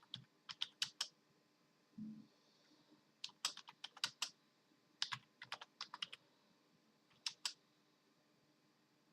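Computer keyboard keys being typed in short irregular bursts, with a dull thump about two seconds in. The typing stops for the last second and a half.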